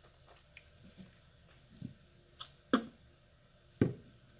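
A few short, wet mouth sounds from chewing a wad of loose-leaf chewing tobacco: small smacks in the first half, then two sharper, louder ones, one a little past the middle and one near the end.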